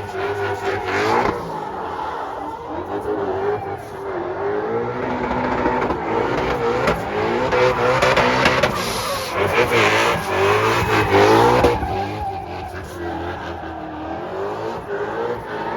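Drift cars sliding, engines revving up and down constantly over squealing tyres, loudest about two thirds of the way through.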